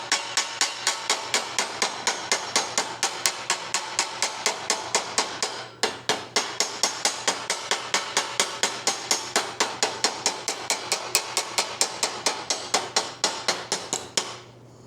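Hammer blows on a sheet-steel patch panel laid over a rod used as a makeshift anvil, about three to four strikes a second with a metallic ring, tightening the bend of the flange. There is a brief pause a little over halfway through, and the hammering stops shortly before the end.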